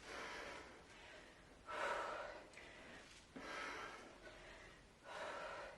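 A woman breathing hard during kettlebell thrusters: four forceful exhales, about one every second and a half, one with each squat and press.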